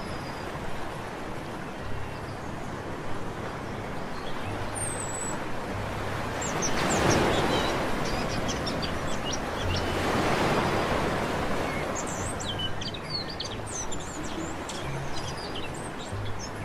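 Sea waves washing onto a beach, swelling up twice, about seven and ten seconds in, while small birds chirp and twitter above, most busily near the end.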